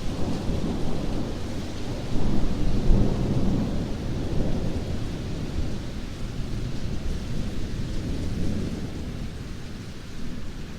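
Heavy rain with a long roll of thunder, the rumble swelling about two seconds in and then slowly dying away.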